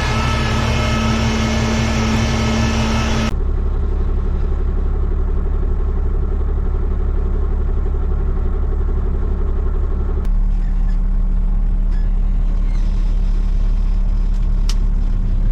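Heavy truck engine running steadily under way, a loud low drone. The sound changes abruptly twice, about three seconds in and again about ten seconds in.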